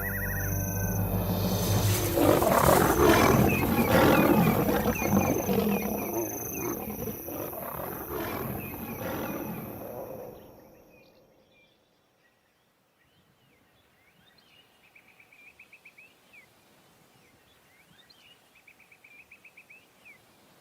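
Lions snarling and roaring in a fight: nomadic males attacking the pride. It fades out after about ten seconds, leaving a faint high trilling repeated in short runs.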